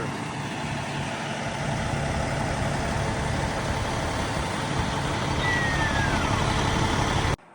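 A heavy truck's engine idling steadily under broad, even noise, with a faint falling whistle a little past the middle. It cuts off suddenly just before the end.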